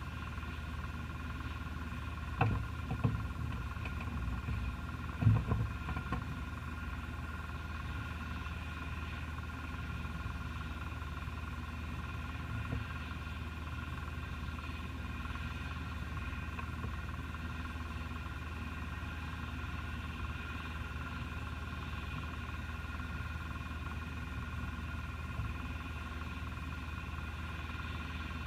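Steady electrical hum and whine with several constant tones, from the cockpit of a Cessna Skyhawk before engine start, with a few short knocks in the first six seconds.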